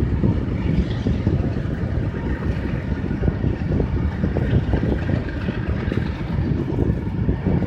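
Passenger train passing at speed, a steady heavy rumble with a dense rattle of wheels on the track.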